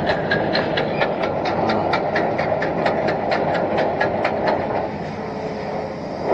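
Hitachi Zaxis 210F amphibious excavator travelling on its pontoon tracks: a rapid, even clatter of track cleats at about seven clacks a second over the running engine. The clatter stops about three-quarters of the way through, leaving the engine running.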